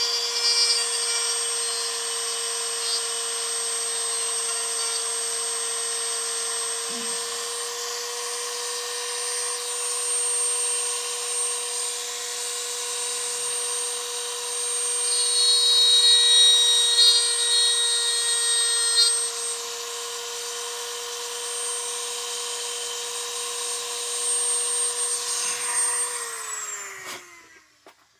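A small high-speed rotary grinding tool running with a steady whine, grinding down a plastic and epoxy HO slot car chassis so it fits, with the grinding loudest about halfway through. Near the end it is switched off, its pitch falling as it spins down and stops.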